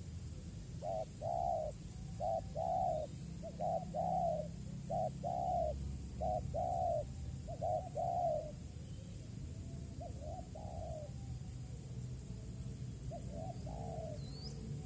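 Spotted dove (tekukur) cooing: a run of about six two-part coos, each a short note followed by a longer one, then two fainter coos later. A few faint high chirps from another bird come near the end.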